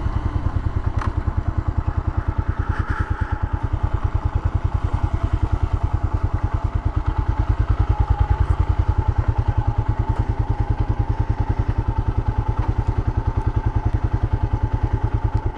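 Honda XL500's single-cylinder four-stroke engine running at a steady speed, an even, rapid beat of exhaust pulses that holds the same pace throughout.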